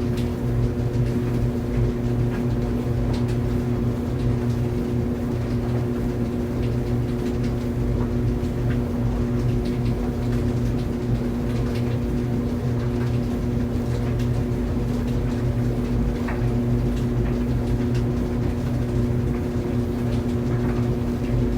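Tumble dryer running: a steady motor hum and drum rumble, with faint light clicks and taps scattered through it.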